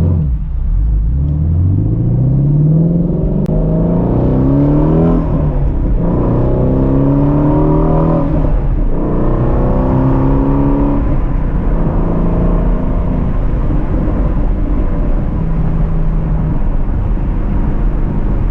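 Ford Shelby GT350's 5.2-litre flat-plane-crank V8 accelerating hard through the gears. The engine note climbs, breaks at upshifts about five and nine seconds in, pulls again briefly, then settles to a steady cruise.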